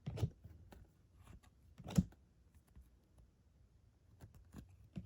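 Baseball trading cards being handled and flipped through by hand: light rustles and soft clicks of card stock, with one sharper click about two seconds in.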